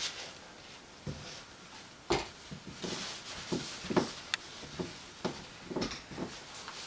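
Irregular light knocks and clicks, about eight in all, of paint-pouring supplies being handled and set down on a work surface.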